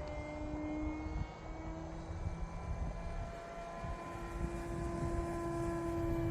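Electric motor and propeller of an E-flite Carbon-Z Cessna 150T radio-controlled plane whining in flight, a steady drone whose pitch rises slightly about four seconds in.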